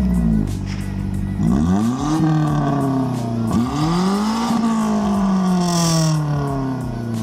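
Toyota Corolla engine with its muffler removed, loud through the open exhaust. It revs up twice, the pitch climbing quickly and then falling slowly as the throttle comes off, with a brief hiss near the end of the second fall.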